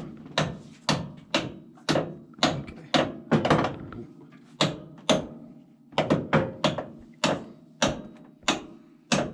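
Hammer tapping repeatedly on a bolt to drive it out, about two strikes a second, with a short pause about four seconds in.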